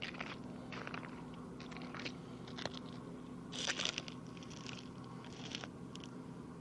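Irregular crunches and scrapes of ice and snow being handled, with a louder cluster a little past halfway, over a faint steady low hum.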